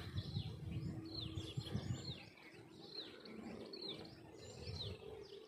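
Bird calling repeatedly with short, falling chirps, about two a second, over a low background rumble.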